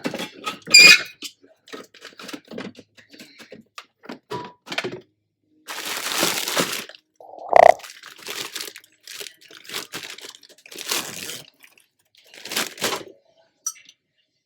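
Kitchen handling noises: plastic packaging crinkling and tearing, with irregular knocks and clatters as smoothie ingredients are handled. There is a sharp knock about a second in and another about halfway through.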